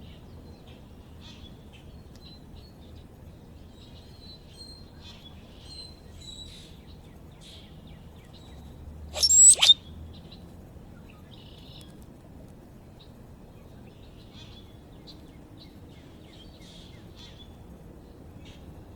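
Backyard birds chirping and twittering faintly, with one loud, harsh call in two quick parts from a bird close by, about halfway through.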